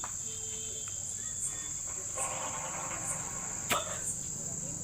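A steady, high cricket trill. Partway through, a hiss of breath about a second and a half long is blown through a pipe into a motorcycle's petrol tank to clear an air lock so the petrol flows, and it ends in a sharp click.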